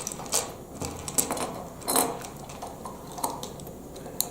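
Plastic Lego Technic parts clicking and knocking together as they are handled and fitted, in a handful of irregular sharp clicks, the loudest about two seconds in.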